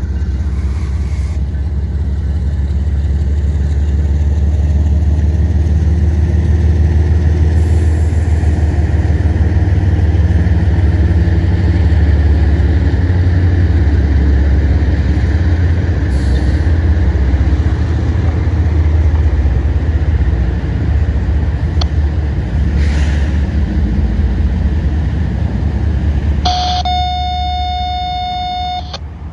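Deep, steady rumble of a diesel-hauled freight train running past. Near the end a short, steady, single-pitched horn-like tone sounds for a couple of seconds.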